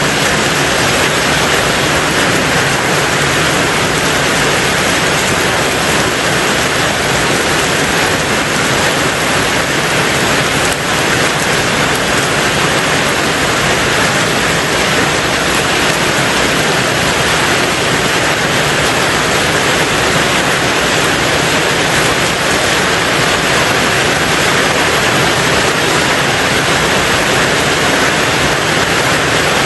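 Rain falling steadily on a tin roof: a dense, even hiss in which no single drops stand out.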